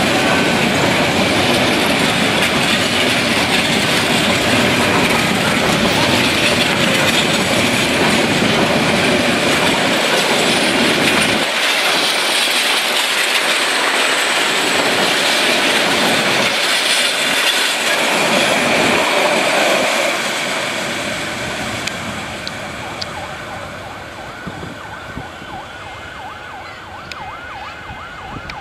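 Meter-gauge passenger coaches of a departing train rolling past on the rails with a loud, steady running noise that fades away after about twenty seconds as the last coaches move off.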